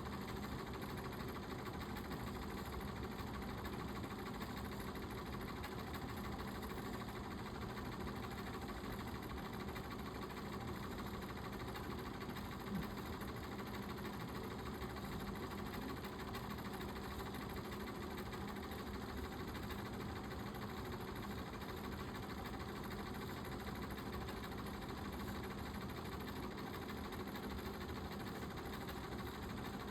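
Dirt bike engine running steadily at an even speed, holding one pitch without revving. There is a brief tap about 13 seconds in.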